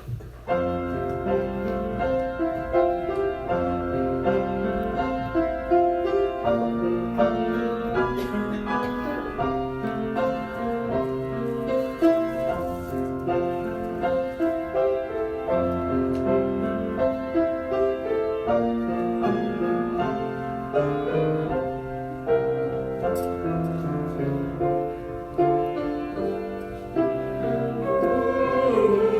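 Instrumental introduction to a worship song, played by a church orchestra with piano: steady, gentle ensemble music.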